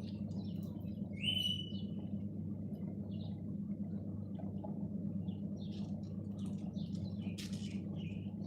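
Birds chirping and twittering in short high calls, with one louder clear whistle about a second in, over a steady low hum.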